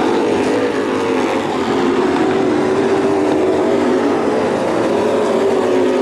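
Dirt-track race trucks' engines running hard at race pace, a steady loud drone that wavers slightly in pitch.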